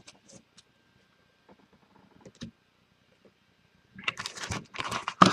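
Faint taps of trading cards being handled. From about four seconds in comes a loud crinkling and tearing of a foil card-pack wrapper.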